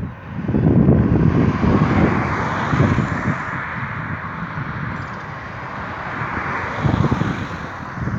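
Wind rushing and buffeting against the microphone in flight under a paraglider, with gusty low rumbles over a steady hiss.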